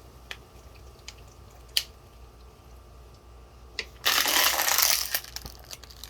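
Hand handling noise from parts and tools at a workbench: a few light clicks, then about a second of loud rustling, scraping noise about four seconds in, followed by more clicks.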